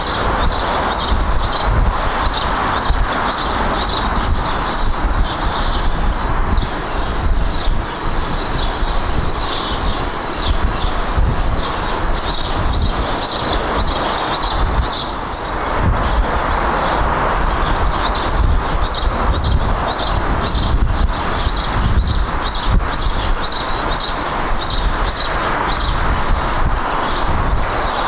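Outdoor ambience: rapid high-pitched chirping repeating without a break, over a steady low rumble.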